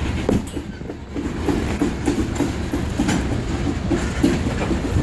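Freight train of tank cars creeping past, a low rumble of the wheels with irregular knocks as they cross rail joints.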